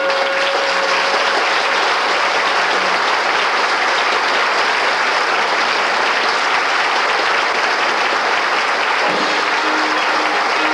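Theatre audience applauding steadily. Faint held music notes come in near the end.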